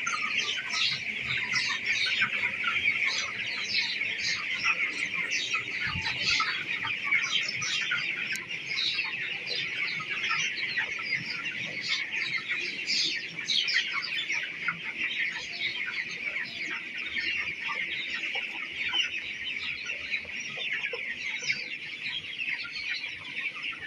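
A large flock of broiler chicks peeping continuously, many short high calls overlapping in a dense, steady chorus.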